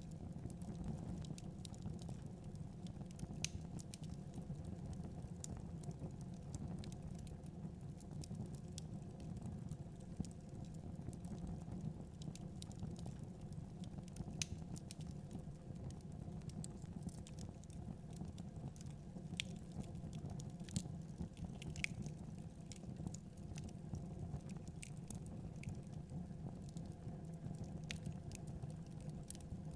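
Wood fire crackling in a fireplace, with scattered sharp pops at irregular intervals, over a steady low rumble of blizzard wind.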